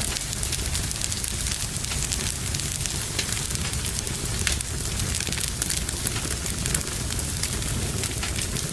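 Fire burning in a fireplace, crackling with frequent sharp pops over a steady low rumble.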